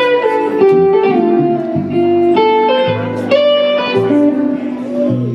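Live slow-blues band: an electric guitar plays a lead of single notes in runs stepping downward, over a bass line.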